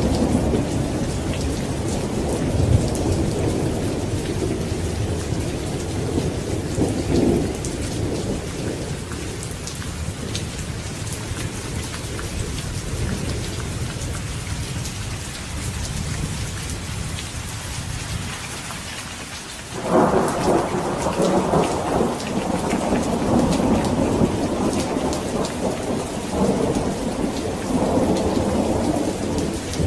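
Steady rain hissing and pattering through a thunderstorm. A long rumble of thunder fades away over the first several seconds; about two-thirds of the way through a new thunderclap breaks in suddenly and rolls on in swells.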